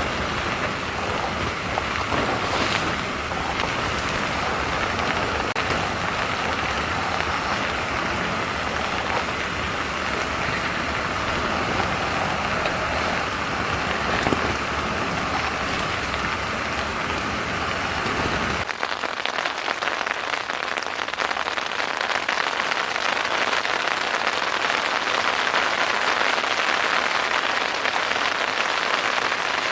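Steady rain falling, an even hiss, with a low rumble underneath that cuts off suddenly about two-thirds of the way through, leaving only the rain.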